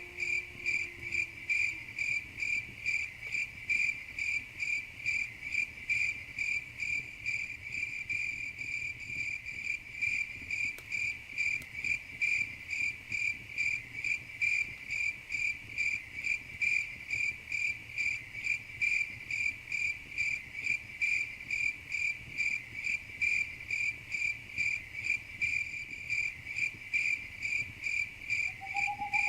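A cricket chirping steadily in an even rhythm, about two high-pitched chirps a second. A faint lower call fades out in the first couple of seconds, and another begins near the end.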